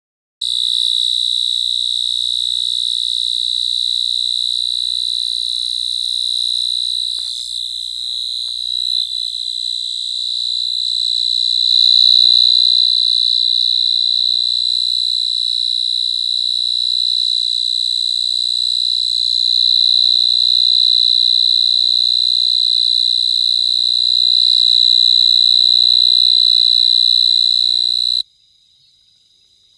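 Cricket singing one continuous high-pitched trill that cuts off suddenly near the end.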